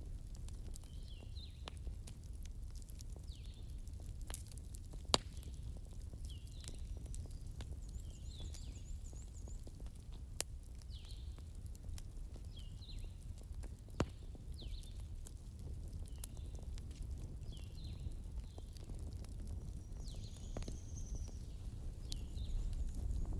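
Wood campfire crackling, with scattered sharp pops (the loudest about five, ten and fourteen seconds in) over a low steady rumble. Short high chirps repeat about once a second in the background.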